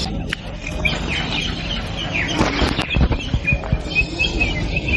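Birds chirping: quick, short, high chirps that come thickest in the second half, over a steady low outdoor rumble, with a few sharp knocks or flutters near the middle.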